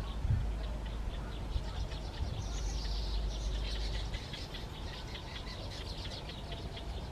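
Pipits chirping in rapid high-pitched series, over a steady low rumble.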